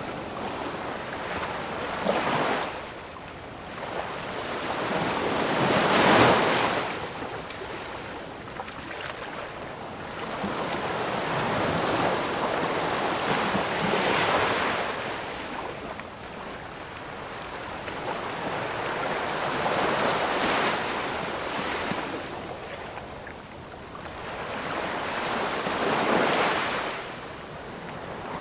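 Ocean waves breaking on the shore: the surf rises and falls in slow surges, about one every five to eight seconds, the loudest about six seconds in.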